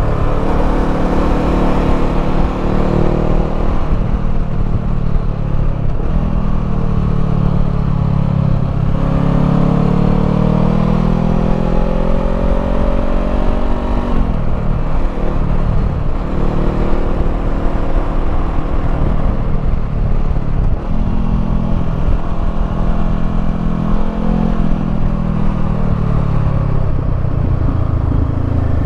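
Honda 500 parallel-twin motorcycle engine running through a Termignoni slip-on exhaust while riding, its pitch repeatedly rising under acceleration and dropping back with gear changes and off-throttle stretches.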